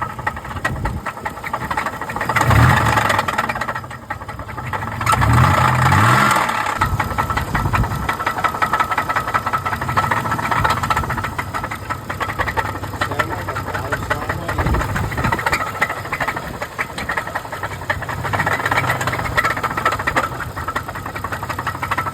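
A vehicle engine running steadily, revving up briefly twice, about two and a half and five seconds in.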